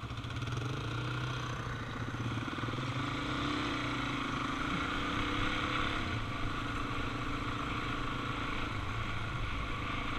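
Suzuki DR-Z400 single-cylinder four-stroke engine running steadily while riding, with wind and road noise over it.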